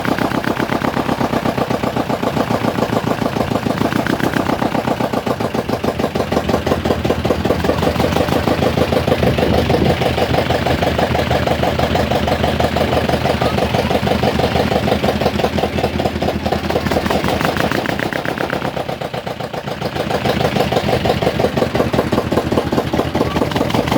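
Ferry boat engine running steadily with a fast, even beat, dipping briefly in loudness about three-quarters of the way through.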